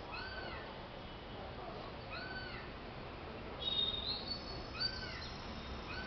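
Repeated bird calls: short, clear whistles that rise and then fall, coming roughly every two seconds, with a louder, sharper call a little past the middle.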